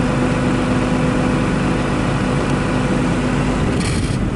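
Diesel engine of harvest machinery running steadily with a constant drone. Near the end the drone eases and a brief hiss sounds.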